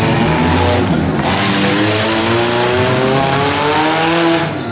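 Figure-8 race cars' engines running loud, one rising steadily in pitch as it accelerates, over a constant hiss of noise.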